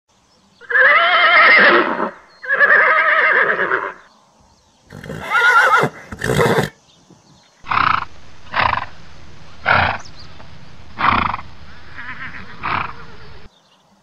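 Horses neighing: two long neighs, then two shorter neighs with a wavering pitch, then a run of six short calls about once a second. The sound cuts off abruptly near the end.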